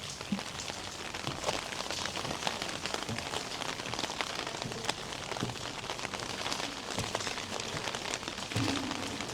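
Steady rain falling, with a dense patter of drops hitting hard surfaces.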